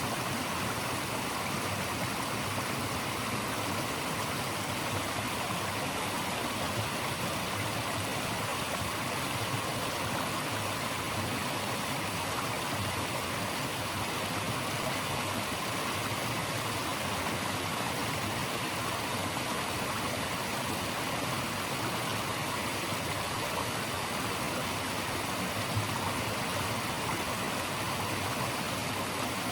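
Flowing stream: a steady, even rush of water.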